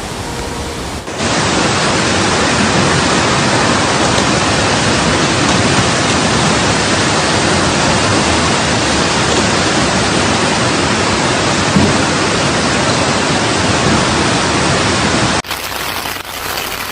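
Heavy rain pouring down in a loud, steady hiss. It starts about a second in and cuts off suddenly near the end, leaving a softer rain hiss.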